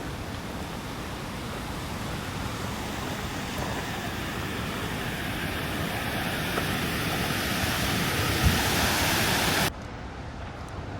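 Steady rush of a waterfall, swelling slowly louder, with one brief low thump near the end. It then cuts off suddenly to a quieter, duller rush of water.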